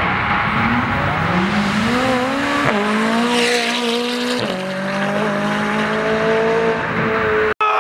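A car's engine accelerating hard. Its note climbs, then drops twice, about a second and a half apart, as it shifts up. The sound cuts out for a moment near the end.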